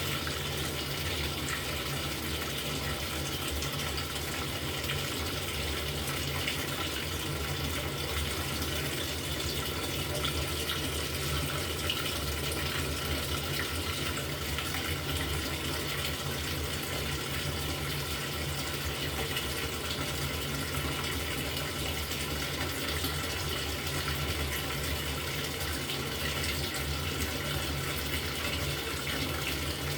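LG top-loading washing machine filling its drum with water: a steady rush of incoming water, with a low hum underneath.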